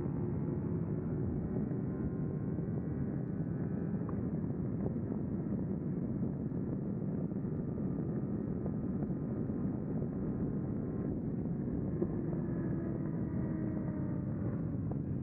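Kawasaki Versys 300's parallel-twin engine running at speed under heavy wind rush on the microphone.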